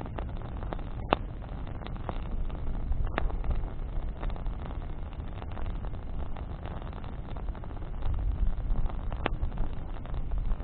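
Campfire of burning branches crackling over a steady low rumble, with a few sharp pops standing out, at about one, three and nine seconds in.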